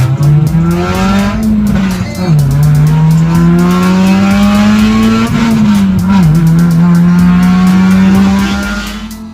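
Car engine accelerating hard through the gears. Its pitch climbs steadily and drops sharply at upshifts about two seconds and about six seconds in, then fades near the end.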